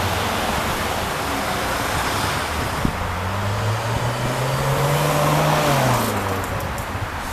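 A motor vehicle passing close by over a steady rushing noise: its engine note rises and swells, then drops in pitch as it goes past about six seconds in.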